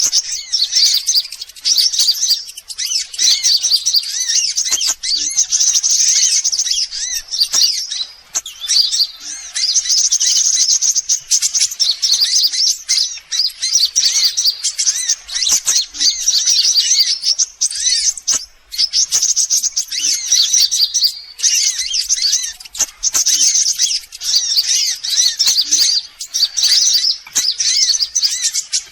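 Sunbirds chirping and twittering fast and high in near-continuous bursts, with short breaks every few seconds: a bird-lure call used to draw sunbirds in.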